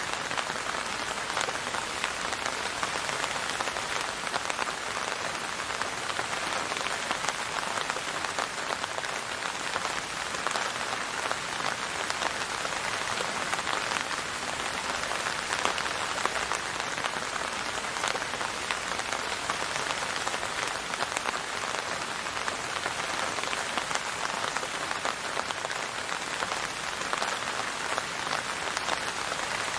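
Steady rainfall, a constant hiss with many fine drop patters and no thunder or music.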